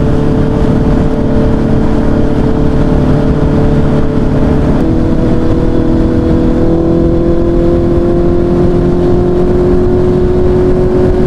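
Honda CB650R inline-four with an aftermarket Daivo exhaust running under way on the road. The engine note holds steady, then about five seconds in drops in pitch as it shifts up a gear and climbs slowly again.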